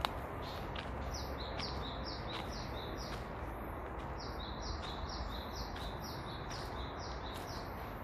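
A songbird singing a long run of quick high notes, each dropping in pitch, about three a second, over a steady low outdoor background rumble. A brief click right at the start.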